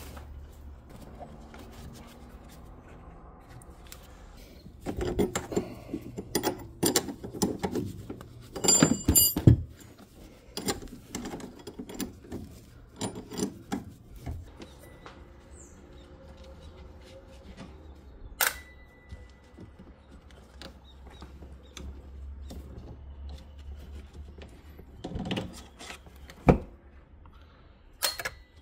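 Hand tools and metal parts handled during car repair work: scattered clicks and rattles, a busy run of clanking with one ringing metallic clank, and a couple of sharp single knocks later, over a low steady hum.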